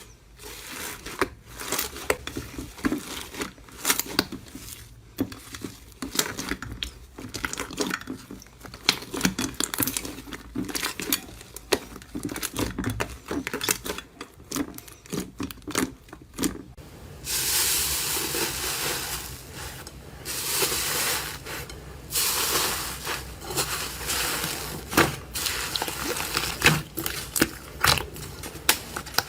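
Hands squeezing and crushing a crunchy material: many quick crackles and pops, turning about seventeen seconds in into a steadier, longer crunching rasp.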